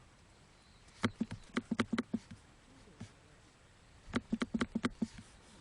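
Two short runs of quick, sharp clicks and taps, about a second in and again about four seconds in, as if small objects are being handled.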